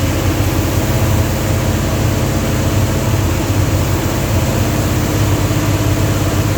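Mopar 360 LA small-block V8 running steadily, an engine whose owner suspects a vacuum leak, like an intake manifold leak.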